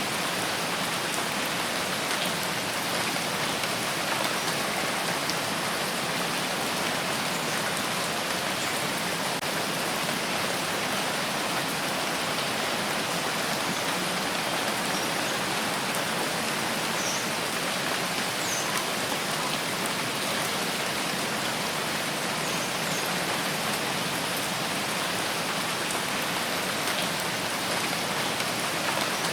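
Steady rain falling, an even hiss of many drops, with a few faint drop ticks here and there.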